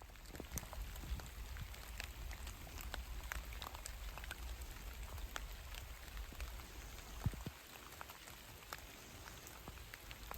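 Rain falling in woodland: a steady patter scattered with many small, sharp drop ticks.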